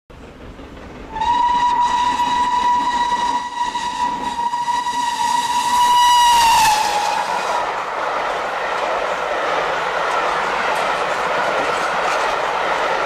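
A train whistle sounds one long steady note for about five seconds, sagging in pitch as it shuts off. It is followed by the steady rushing noise of a train running on the rails.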